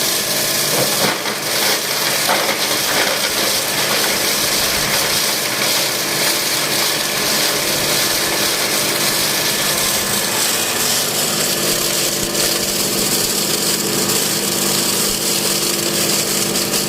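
Plastic shredder driven by a 5 hp three-phase electric motor, running steadily with a loud whirr and a constant hum. There are irregular cracks and knocks in the first few seconds as material goes through the cutters.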